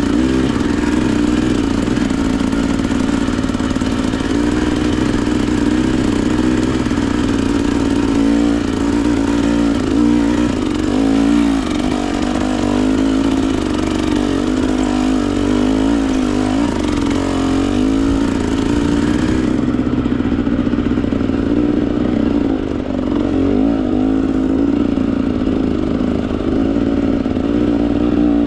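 A two-stroke Husqvarna TE 300 dirt bike engine running under throttle, its pitch continually rising and falling as the rider works the throttle. A high hiss behind it drops away about two-thirds of the way through.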